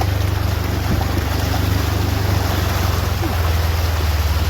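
Ranger utility vehicle's engine running steadily with a low hum as it fords a flooded creek, with water rushing and splashing around the vehicle.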